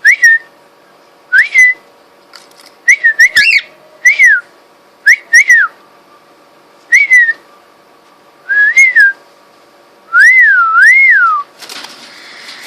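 Cockatiel whistling: a series of about ten short, loud rising-and-falling whistles spaced about a second apart, ending with a longer double whistle that slides downward.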